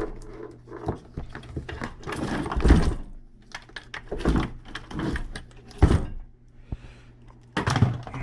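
Engine parts and tools being handled: an irregular string of knocks and clunks, the loudest about three, six and eight seconds in.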